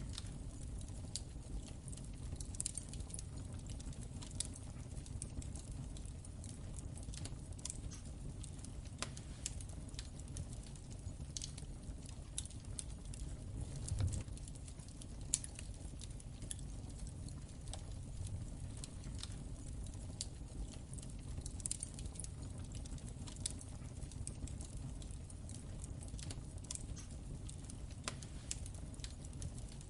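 Wood fire in a fireplace crackling: irregular sharp pops and snaps over a low steady rumble of the flames, with a couple of louder pops around the middle.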